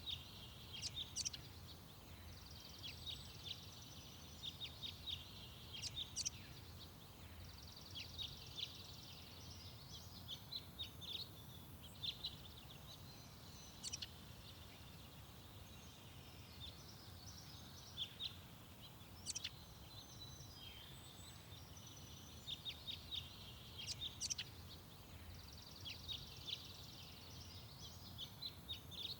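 Small garden songbirds singing and chirping in short, rapid phrases of high notes that recur every few seconds, over a faint steady low rumble of background noise.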